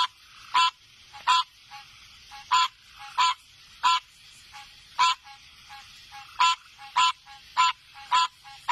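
Frogs calling: short, loud, honking calls repeating about every half second to second, with softer, lower-pitched short notes between them.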